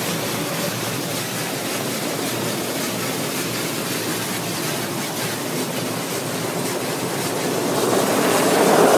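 Automatic car wash machinery spraying foam and water over the car, heard from inside the cabin as a steady, loud rushing wash of noise that swells in the last second or so.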